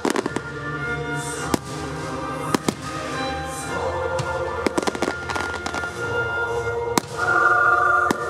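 Fireworks going off in an irregular series of sharp bangs over steady music. The music swells louder near the end.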